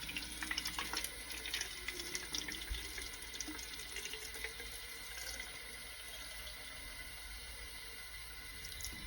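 Bathroom sink tap running steadily, filling a can with water.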